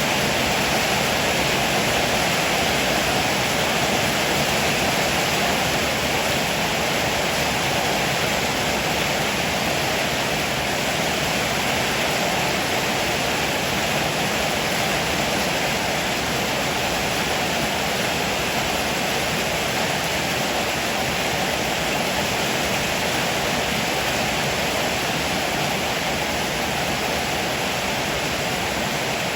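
Heavy rain falling steadily on a roof, a dense, even hiss with no thunder.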